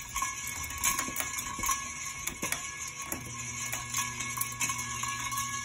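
Alaska ventless ceiling fan running at speed: a steady motor hum and whine, with a lower hum that strengthens about three seconds in as the fan speeds up. Light ticks run through it, from the squeak the owner puts down to a loose screw somewhere in the housing.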